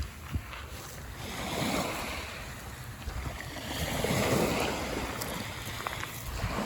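Small waves washing onto the shore, swelling and ebbing twice, with wind buffeting the microphone.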